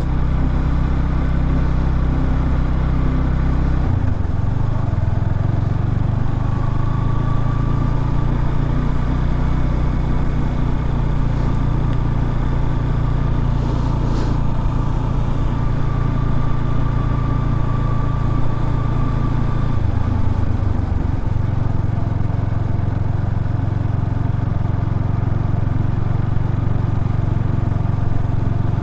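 Motorcycle engine running steadily while riding through soft beach sand. Its note changes about four seconds in and again around twenty seconds.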